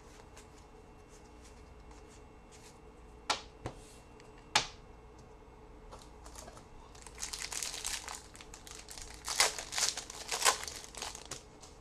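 A few sharp clicks, then a trading card pack's wrapper crinkling and tearing open in a dense run of rustling that peaks twice near the end.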